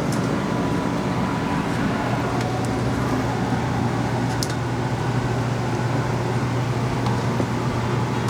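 A steady low mechanical hum with an even rushing noise, and a few faint clicks.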